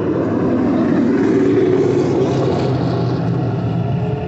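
A race car's engine running loud as the car drives up toward the listener.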